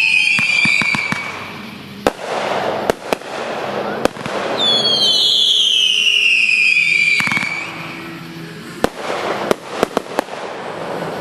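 Consumer fireworks going off: two whistling shells, each a shrill whistle falling in pitch for about two seconds, the second starting about four and a half seconds in. Sharp bangs and crackling pops come between and after the whistles.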